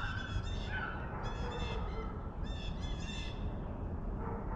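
A pack of rabbit hounds giving tongue as they run a rabbit: short, high yelps and bawls that come in clusters every second or so.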